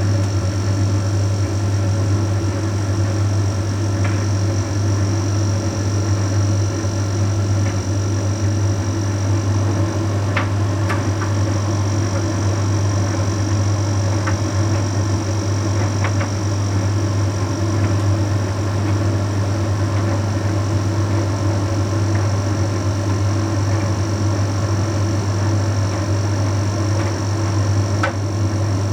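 Bosch Series 6 heat pump tumble dryer running mid-cycle: a steady low hum from the drum motor and heat pump, with a few faint clicks.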